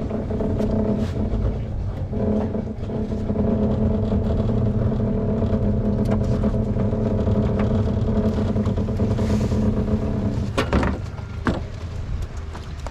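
A small boat's motor running steadily, then cut off about ten seconds in as the boat comes in, followed by a few knocks.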